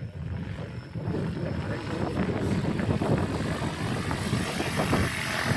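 Radio-controlled model helicopter in flight: steady rotor and motor noise that grows louder and hissier about halfway through.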